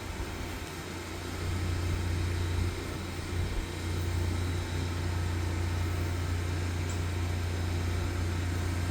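High-pressure sewer jetter's motor and pump running steadily with a low hum while the jetting hose works inside the sewer line; it gets louder about a second and a half in.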